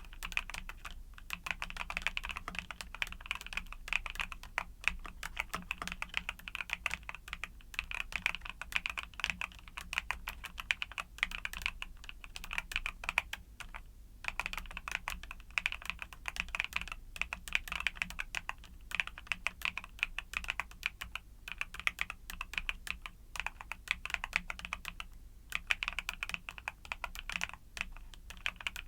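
Typing on a YUNZII mechanical keyboard with Cocoa Cream switches: a fast, continuous run of key clacks, with a short pause about halfway through.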